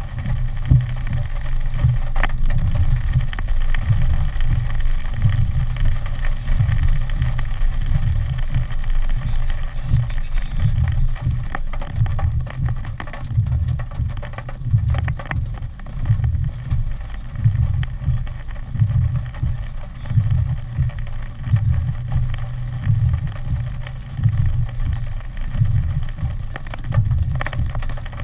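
Hurricane wind buffeting the microphone as a low, constantly gusting rumble over a steady hiss, with a few sharp taps, the clearest about two seconds in and near the end.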